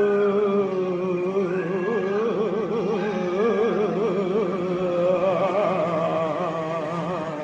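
Wordless vocal toning: a voice holds a steady pitched tone, then lets it waver and warble up and down, over a steady low drone, and fades near the end.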